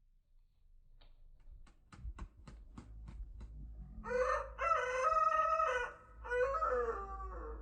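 Young rooster crowing: a long cock-a-doodle-doo starting about four seconds in, broken by a short gap and then drawn out again. It is preceded by a quick run of about nine sharp taps, a few a second.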